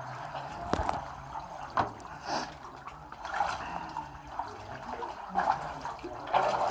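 A canoe paddle dipping into calm water: irregular splashes and drips about once a second, with a few sharp knocks.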